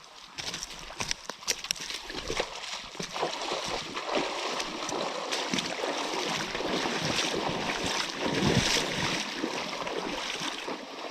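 Water splashing and running in a shallow stream, with many small clicks and knocks, building up about two seconds in.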